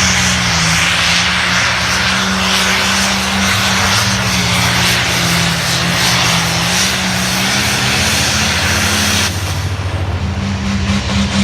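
Limited pro stock pulling tractor's turbocharged diesel engine running hard, its pitch wavering slightly under a loud hiss. About nine seconds in the hiss cuts off suddenly and the engine carries on at a lower level.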